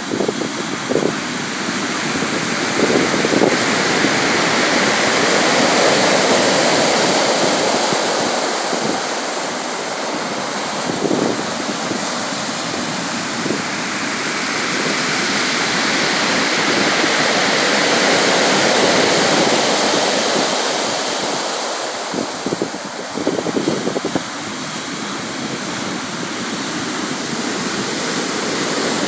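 Sea surf: a steady rush of waves washing ashore that swells and eases slowly, about every ten seconds or so, with brief crackles of breaking water.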